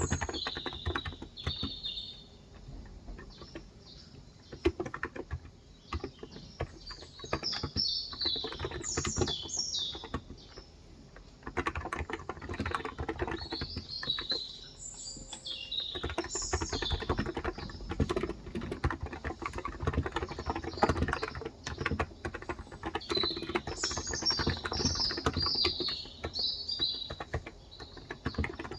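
Typing on a Cox Endeavor electro-capacitive 35 g tenkeyless keyboard: a steady run of keystrokes that eases off briefly a few times. Birds chirp in several short bouts of twittering behind it.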